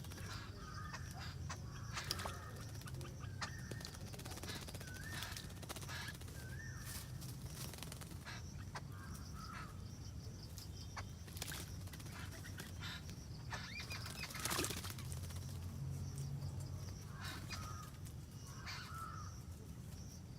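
Birds calling outdoors in short, scattered chirps over a steady low hum.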